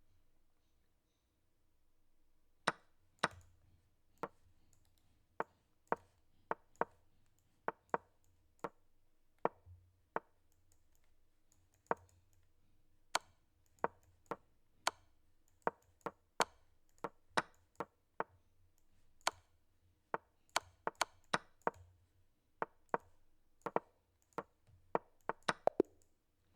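Online chess move sounds: a series of sharp wooden-sounding knocks, one per move, spaced irregularly and coming faster and closer together over the last several seconds as both players move quickly.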